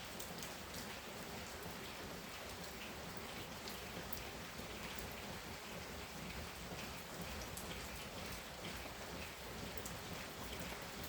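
Steady heavy rain falling, with many small drop impacts pattering on surfaces.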